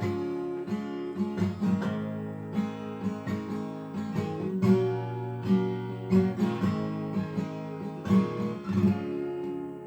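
Acoustic guitar strummed and picked in the closing instrumental bars of a song, fading out near the end.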